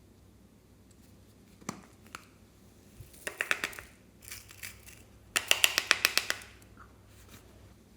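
Slime being squeezed and worked by hand, making sticky clicking pops: a few single pops, then two quick runs of crackling clicks, the second and loudest near the middle.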